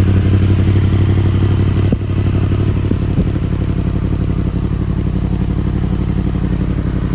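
Yamaha MT-10's crossplane inline-four engine idling steadily through an aftermarket exhaust, with a slight dip in level about two seconds in.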